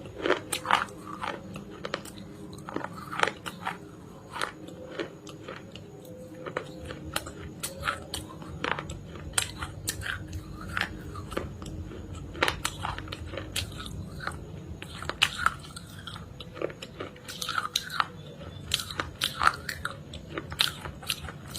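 Close-up biting and chewing of something hard and crunchy, with many sharp, irregular crunches following one after another.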